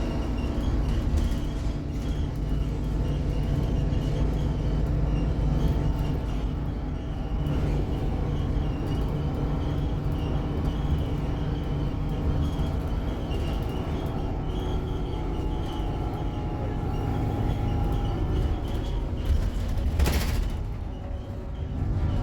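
Scania K280UB city bus heard from inside the cabin: the diesel engine drones steadily under a low road rumble, with a faint high whine wavering above it. About twenty seconds in there is a brief loud hiss.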